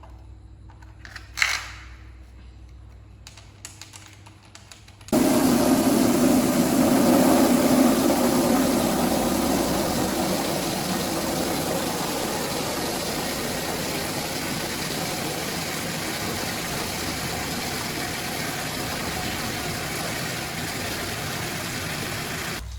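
A single sharp click, then about five seconds in a loud steady rushing noise from a machine starts abruptly and slowly fades.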